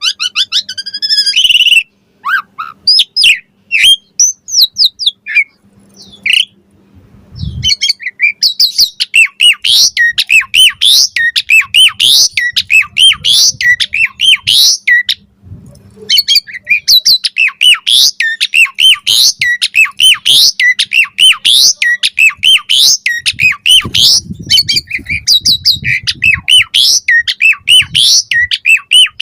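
Pied starling (jalak suren) singing a fast, continuous run of squawky whistles and chirps, its full chattering song with varied fill-in notes. There are short breaks about two and six seconds in and again around halfway.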